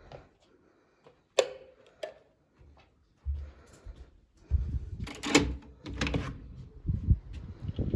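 A few sharp clicks and knocks, then gusty wind rumbling on the microphone with rustling, stronger in the second half.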